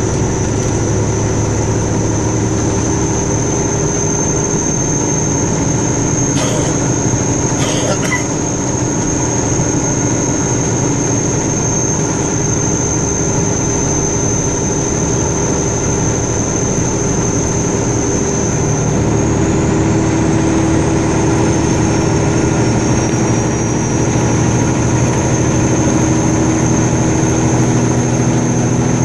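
Car engine and road noise heard from inside the cabin while driving, steady, with a thin high whine over it. About two-thirds of the way through the engine note rises and gets louder as the car picks up speed.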